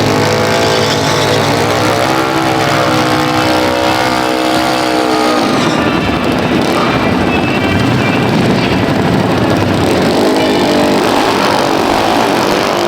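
Loud vehicle engine running, its pitch climbing a little early on and holding before dropping away about five seconds in, then a steadier rumble.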